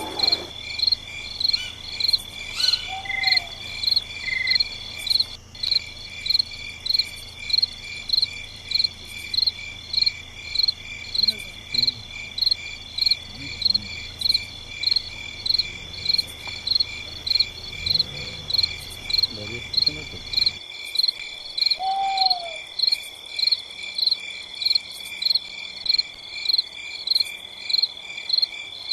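Night insects, crickets or similar, chirping: a steady high trill with a loud, evenly pulsing chirp about one and a half times a second. A short lower falling call sounds twice, near the start and about 22 seconds in.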